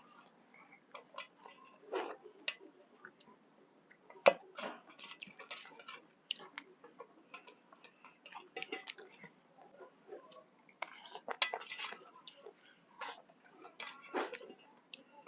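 Close-up eating sounds: chewing and wet mouth smacks with scattered sharp clicks, a person eating a meal of rice and chicken curry.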